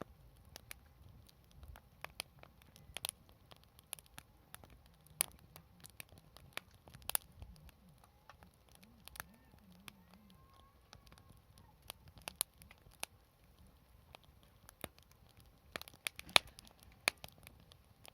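Wood fire crackling, with irregular sharp pops and snaps of burning firewood, a loud cluster of pops near the end.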